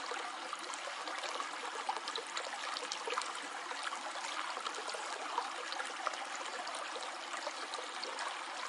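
Shallow stream flowing steadily, water trickling and splashing over stones in a continuous babble.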